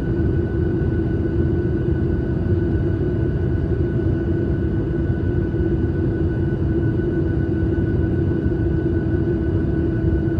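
Steady airliner cabin noise in flight: a constant rumble of engines and airflow with a steady hum over it.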